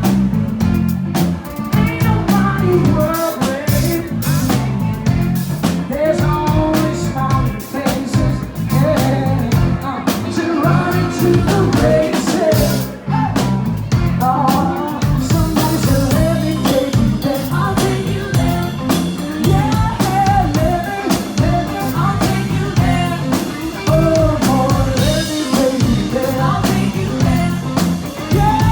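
Band music with guitar and drum kit playing a steady beat.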